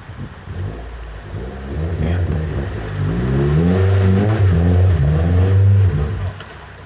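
Off-road 4x4's engine revving up and down under load as it works through a soft hole, building over the first few seconds, loudest in the middle, then easing off near the end.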